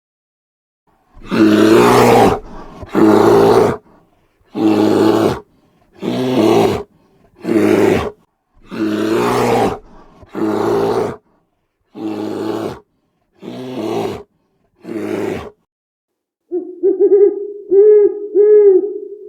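An animal making a series of about ten loud, harsh roaring calls, each about a second long, then a few short pitched hooting calls near the end.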